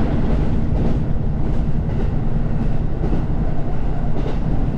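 Diesel train running along the rails: a steady low rumble with faint, irregular clicks of the wheels.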